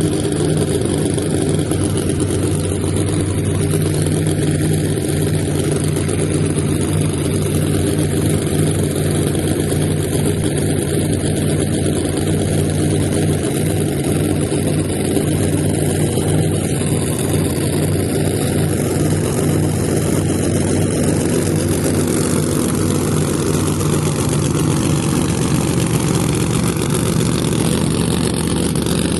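Drag car's engine idling loudly and steadily.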